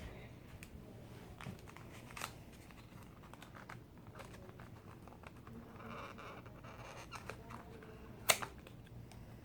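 Faint crinkling and tearing of a small fireworks package being pried open from the bottom, with scattered small clicks and one sharp click near the end.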